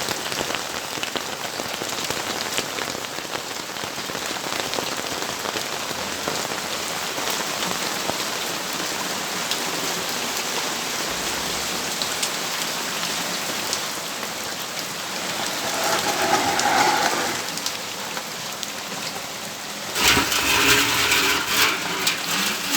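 Steady rainfall: an even hiss with many separate drops tapping. Near the end a sudden, louder noise breaks in for about two seconds, after a smaller swell a few seconds earlier.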